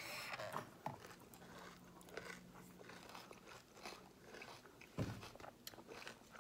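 Close-up chewing and crunching of spoonfuls of cereal, with many small crackly clicks and a soft thump about five seconds in.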